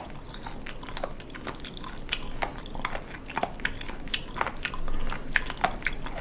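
A person chewing raw seafood: a rapid, irregular run of sharp mouth clicks.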